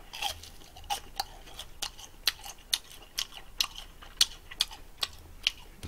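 Crunching of a crispy deep-fried gimmari (fried seaweed roll) being chewed close to the microphone: sharp, crackly crunches, irregular at about three a second.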